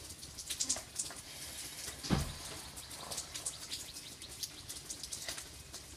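Plastic bag wrapped around the recording iPad crinkling and crackling as it is handled on the move, with one dull handling thump about two seconds in.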